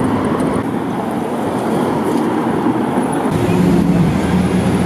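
City street traffic noise, with a low vehicle engine rumble coming up about three seconds in.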